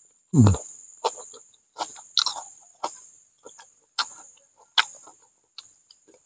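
Close-miked mouth sounds of a man chewing fried catfish: a string of short, wet smacks, about one or two a second.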